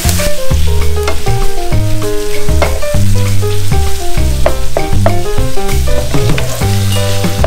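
Raw ground beef with diced onion and celery sizzling as it begins to fry in a nonstick pan, stirred with a wooden spatula. Background music of changing pitched notes over a bass plays over it.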